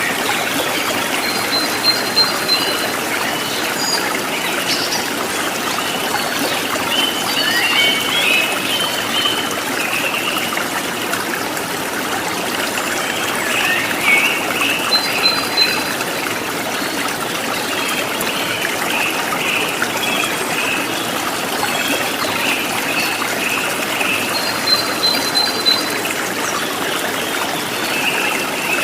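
Running water trickling steadily, with birds singing over it: warbling chirps throughout and a short run of high, quick notes that comes three times, near the start, in the middle and near the end.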